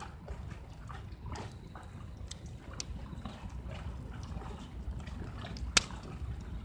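Wood fire crackling in a rocket stove made from a cut-out 18-litre square can: scattered sharp pops, the loudest near the end, over a low steady rumble.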